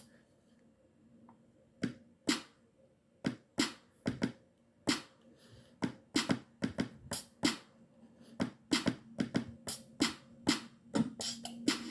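Short, sharp sampled hits triggered one at a time from an Akai MPC One's pads at an uneven, loose rhythm, starting about two seconds in and coming faster in the second half.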